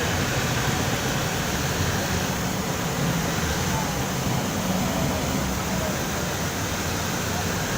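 Steady rushing noise of river water with pickup-truck engines running low underneath, holding even throughout.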